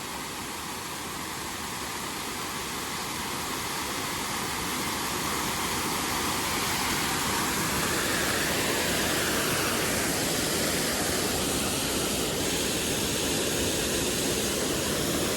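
Steady rushing of creek water and a small waterfall, growing slightly louder over the first several seconds and then holding even.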